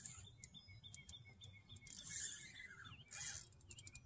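Songbirds chirping, over scattered sharp clicks from a fishing reel as a hooked fish is played on a bent rod, with two short hissing bursts.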